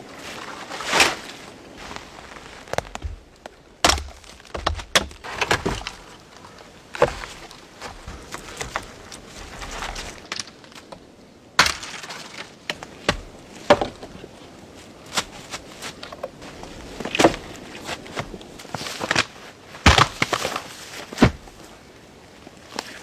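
A series of irregular sharp knocks and cracks, about twenty of them, spaced unevenly, some sounding alone and some in quick clusters.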